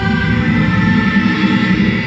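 Electronic soundtrack passage: a loud, steady engine-like drone made of many sustained tones over a low rumble.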